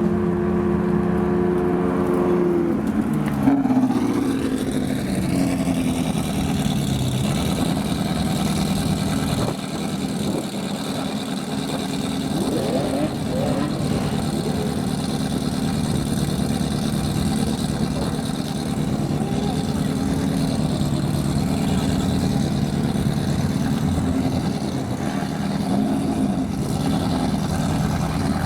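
Supercar engines running. One engine note drops in pitch about three seconds in, then several engines run together steadily, with a few brief rising revs in the middle.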